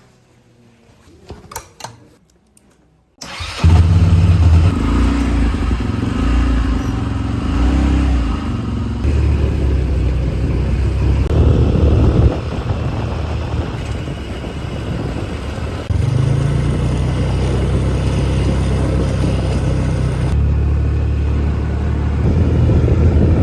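A few faint clicks, then a vehicle engine sound starts suddenly about three seconds in and runs on loudly as the vehicle travels, the engine note shifting in steps several times.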